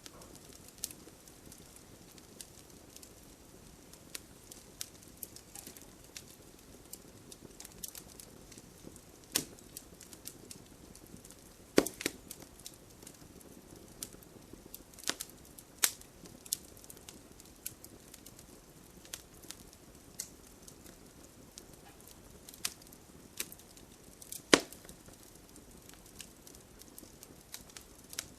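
Wood campfire crackling, with a faint steady hiss under scattered sharp pops and snaps at irregular intervals. A few louder pops come about halfway through and again near the end.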